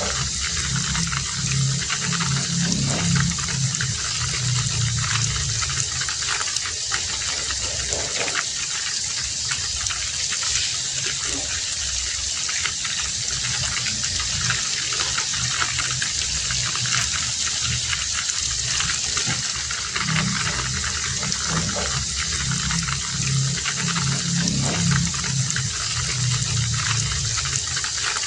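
Heavy rain falling steadily. A low, pulsing sound comes in twice, at the start and again about two-thirds of the way through.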